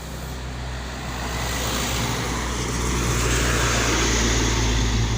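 A heavy truck's diesel engine and tyres approaching along the road, a steady low engine hum with road noise growing louder and loudest near the end as it comes close.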